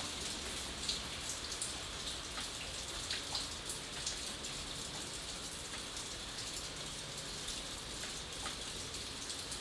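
Steady rain falling, with a constant hiss and many separate drops ticking on a surface.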